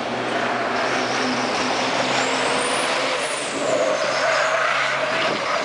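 Formula Truck race trucks' diesel engines running at speed on the circuit, a loud steady engine noise whose pitch shifts about halfway through.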